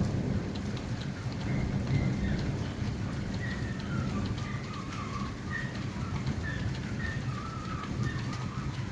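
Heavy rain pouring in a thunderstorm, with a steady low rumble of thunder under the hiss of the rain and scattered sharp ticks of impacts.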